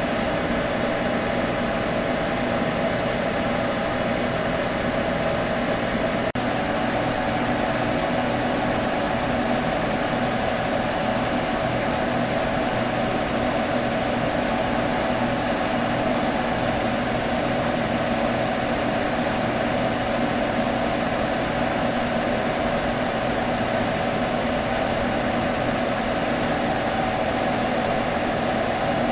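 Computer humming steadily: an even whirring with a few held tones, like its cooling fans spinning at a constant speed.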